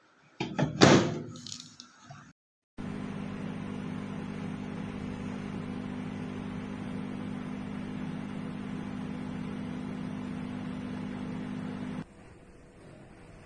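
A loud clunk, then a Sharp basic 20-litre microwave oven running with a steady hum of several even tones, which cuts off abruptly near the end.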